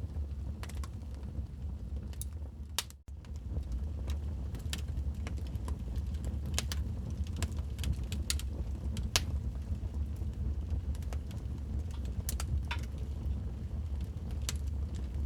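Wood fire crackling in a fireplace: irregular sharp pops and snaps over a steady low rumble of the burning fire. The sound drops out for an instant about three seconds in.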